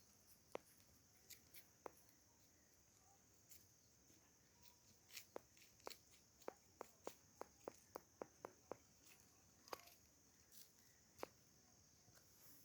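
Faint, sharp taps or clicks: scattered at first, then a quick run of about a dozen in the middle, over a steady high-pitched insect drone.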